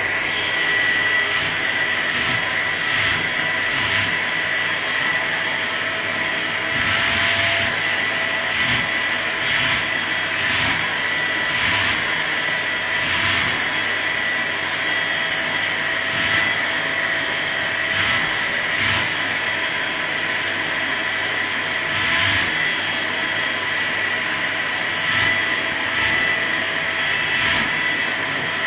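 Vacuum cleaner running steadily with a constant high whine, its airflow rushing louder for a moment every second or two.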